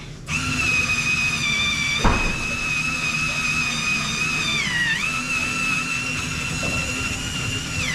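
High-pitched whine of a small motor running at a steady speed, dipping in pitch briefly twice as it slows under load. There is a sharp knock about two seconds in.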